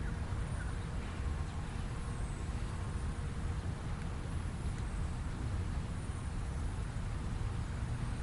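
Steady low outdoor rumble, with a few faint, short, high bird chirps scattered through it.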